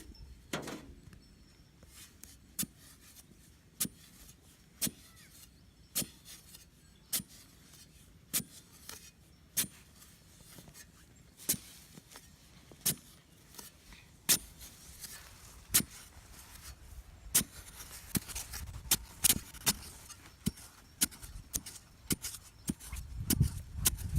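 A series of sharp, short taps or clicks, about one a second, coming more often over the last few seconds.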